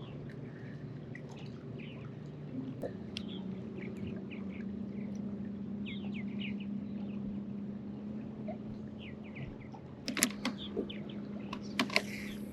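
Short bird chirps over a steady low hum, with a few sharp clicks about ten seconds in and again near the end.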